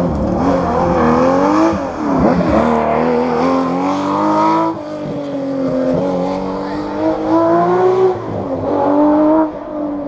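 Historic rally car engine under hard acceleration, rising in pitch and dropping sharply at each of several gear changes as the car drives through the stage.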